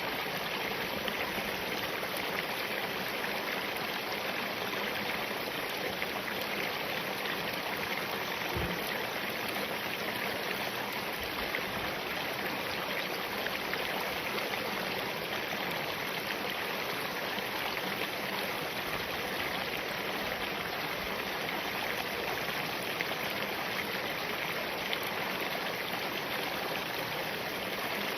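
Spring-fed mountain stream running over rocks: a steady, even rush of flowing water.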